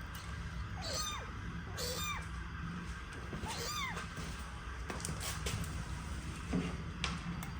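An animal's short calls falling in pitch, about three of them, over a steady low hum.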